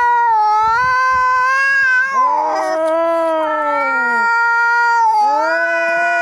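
Domestic cats caterwauling in a fight standoff: long, drawn-out yowls that swell and fall, overlapping one another with no break. These are the angry calls of cats squaring off.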